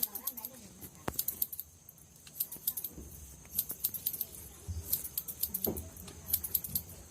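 Hairdressing scissors snipping hair in irregular clusters of quick, sharp metallic clicks.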